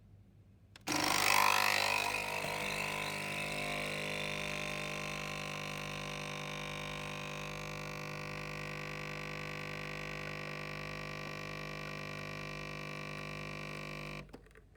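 DeLonghi capsule coffee machine's pump starting about a second in and running with a steady hum while it brews a small espresso, louder and noisier for its first second or so. It cuts off suddenly near the end when the shot is done.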